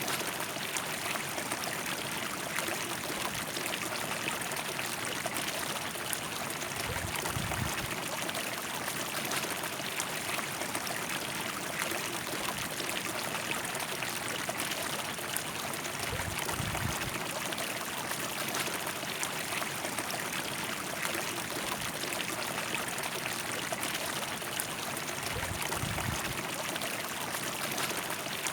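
River water flowing and gurgling over its bed in a steady rushing wash, with a few brief low rumbles.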